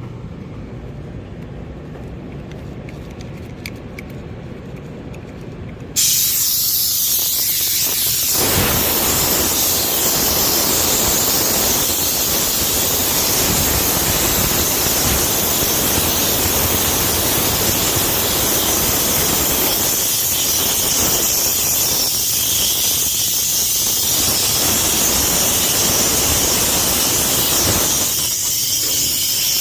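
Nitrogen from a 100 psi leak test being vented out of a walk-in freezer's refrigeration system: a loud, steady gas hiss that starts suddenly about six seconds in. The system held pressure with no leaks and is being emptied before a vacuum is pulled.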